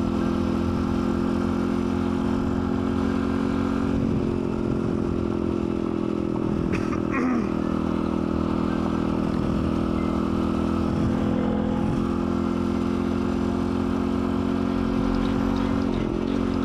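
Dirt bike engine running at a steady speed while riding, its pitch wavering briefly about seven seconds in and again near the end.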